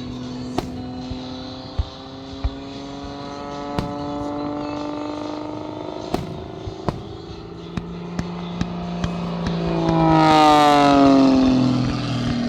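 An aircraft engine passing overhead: its pitch rises slowly, grows loudest about ten seconds in, then drops steeply as it goes by. Sharp firework bangs and pops sound every second or so throughout.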